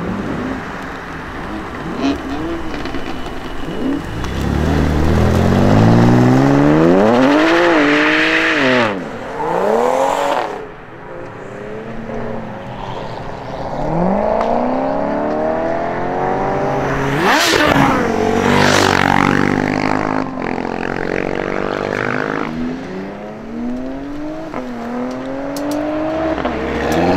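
Tuned performance cars accelerating hard away one after another, their engines revving up through the gears with the pitch climbing and then dropping at each shift. Two sharp exhaust bangs come in the middle, and another car's revs start rising near the end.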